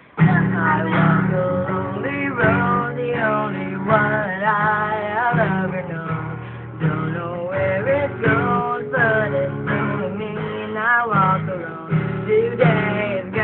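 Strummed acoustic guitar with a man's voice singing a wavering melody over it.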